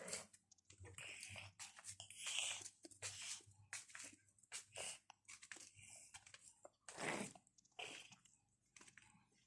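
Faint, irregular crunching and crackling, several short crackles a second, with a louder one about seven seconds in.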